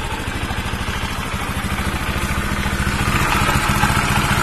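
Bajaj Pulsar 135 LS single-cylinder four-valve engine idling just after a valve clearance and timing chain adjustment, getting slightly louder toward the end. The valve tapping is now low: the adjustment has cut the valve noise.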